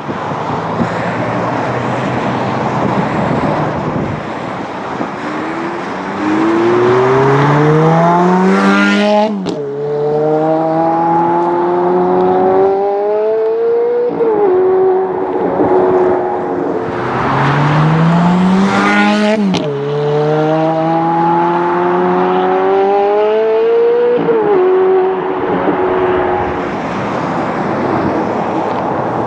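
Sports car engines accelerating hard twice in succession. Each time the engine revs up through a gear, drops sharply in pitch at a quick upshift, and pulls up again through the next gear.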